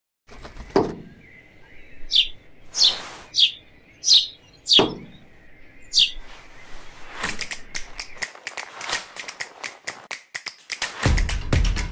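A short thump, then birds chirping: about six separate high chirps over a few seconds. Then a quick run of rustles and clicks, and music comes in near the end.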